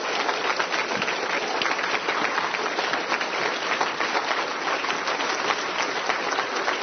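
Church congregation applauding: steady, dense clapping of many hands.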